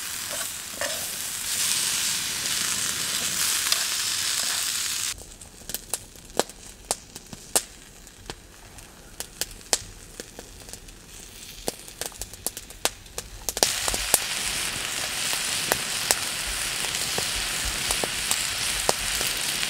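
Food sizzling in a frying pan. About five seconds in, the sizzle stops abruptly, leaving the campfire's wood crackling with sharp pops for about eight seconds, and then the sizzling comes back.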